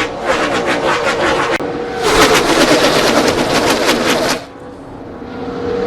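NASCAR Cup stock cars' V8 engines at high revs on track, a rapid crackling firing beat. It gets louder about two seconds in, falls away about four and a half seconds in, then builds again near the end.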